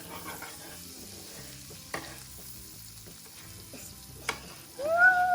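Rice-a-Roni rice and vermicelli toasting in melted butter in a pan, sizzling steadily while a spoon stirs, with a couple of sharp taps of the utensil on the pan. Near the end, a voice lets out a loud, long "woo" that rises and then falls in pitch.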